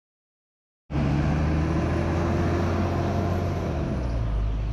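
Silence, then about a second in a bus engine cuts in abruptly, running steadily with a deep hum and a faint high whine.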